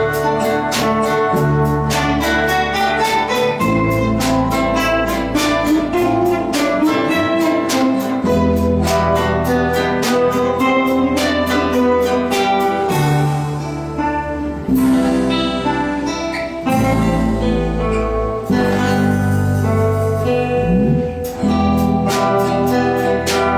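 Ensemble of guitars playing: a steady rhythm of plucked notes over a bass line that changes every second or two.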